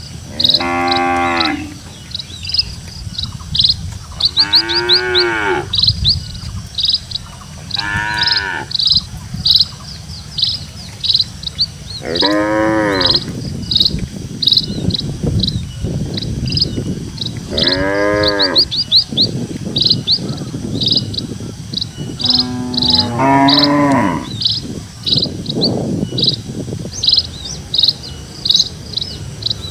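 Cattle mooing: six long, low calls that rise and fall in pitch, one every four or five seconds. A steady, high, rhythmic chirping runs underneath.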